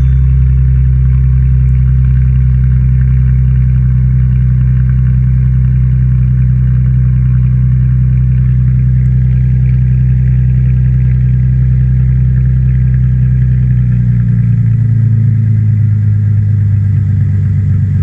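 New Edge Mustang V6 running with its muffler deleted, idling with a steady, loud exhaust note. The pitch rises slightly about three-quarters of the way through.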